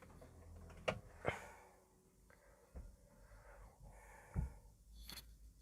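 A few faint, separate clicks and knocks over a low hum.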